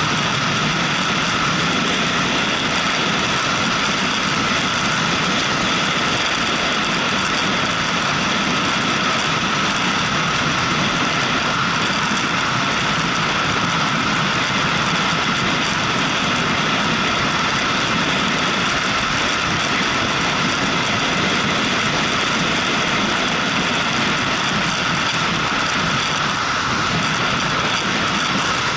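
Motorcycle engine running steadily, heard under an even rushing noise with no change.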